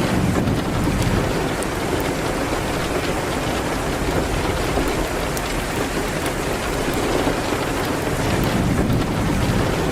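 Steady rain, with a low rumble swelling about a second in and again near the end, and faint scattered ticks over it.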